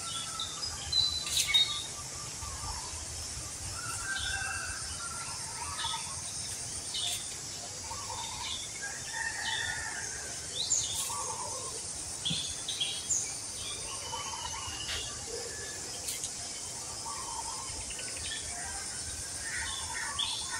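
Birds chirping in short, scattered calls over a steady high insect buzz that fades out about two-thirds of the way through.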